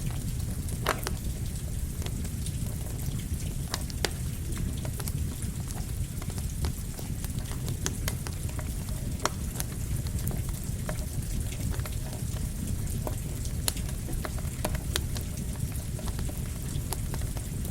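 Campfire crackling with irregular sharp pops over a steady low rush of rain.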